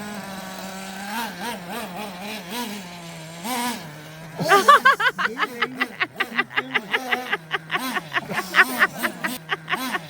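Traxxas T-Maxx's TRX 3.3 nitro engine buzzing, its pitch rising and falling as the throttle is worked. From about four and a half seconds in, a louder rapid series of sharp pulses, about five a second, joins it.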